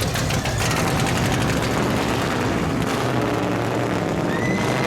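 Monster truck's big engine running loud and steady, with a heavy low rumble.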